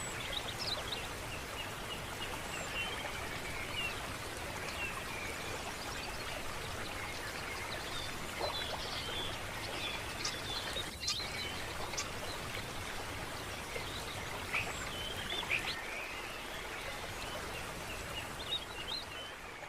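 Running water, a steady rush, with birds chirping now and then over it.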